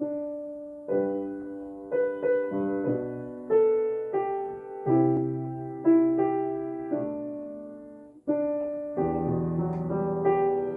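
Solo piano playing a slow, gentle jazz-style hymn arrangement: chords struck about once a second and left to ring and fade, with a short break about eight seconds in before fuller, lower chords.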